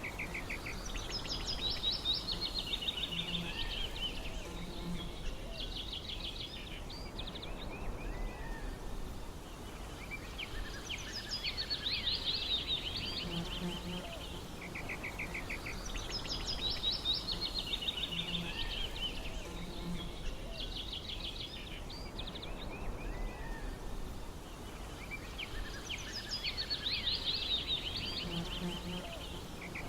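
Songbirds singing in bursts of quick trills and chirps that come back every several seconds, over a steady low background rumble.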